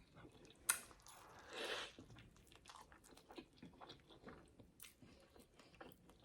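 Close-miked bite into a crunchy burger with a hash brown in it, a sharp crunch about a second in, followed by steady chewing with many small wet clicks.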